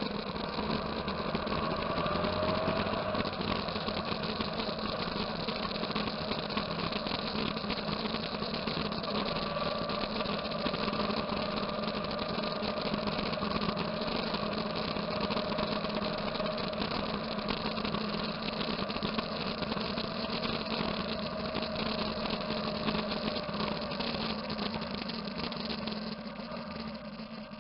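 Motorcycle engine running steadily, with faint slowly wavering tones above it; it eases off near the end.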